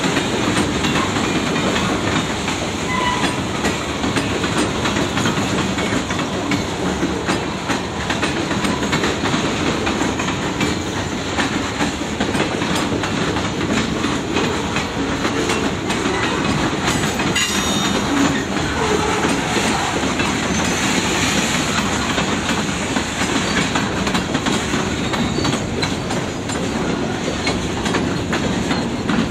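Freight train cars rolling past in a steady, continuous stream, their wheels clicking over the rail joints.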